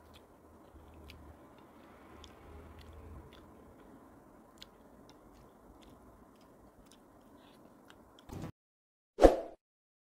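Faint chewing and small mouth and finger clicks of someone eating fish by hand. About eight seconds in it cuts off abruptly, and a single short, loud sound effect follows about a second later.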